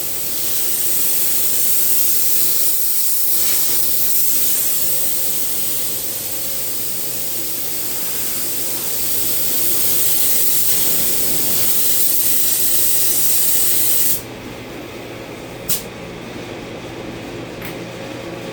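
A steady, loud spraying hiss that cuts off suddenly about fourteen seconds in. A single sharp click follows shortly after.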